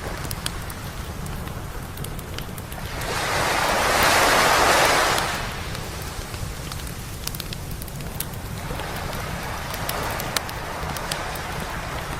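Waves washing up on a beach: one surge of surf builds and fades about three to five seconds in, and a smaller one follows later, over a steady low rumble. Small sharp crackles from a campfire are scattered throughout.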